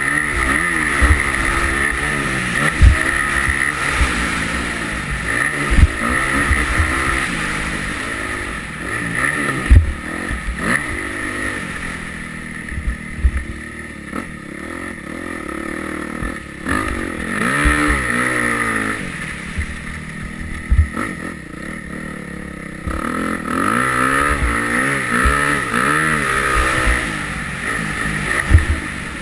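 Yamaha YZ250F four-stroke single-cylinder motocross engine revving up and dropping back again and again as the bike is ridden, with scattered thumps.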